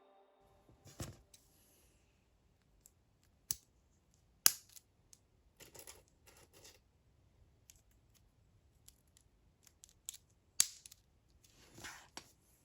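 Plastic Lego pieces being handled and pressed together: scattered sharp clicks and taps, with a few short rustles.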